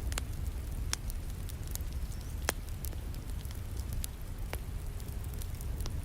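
Wood fire crackling with sharp pops, the loudest about two and a half seconds in, over a steady low rumble and a hiss of rain.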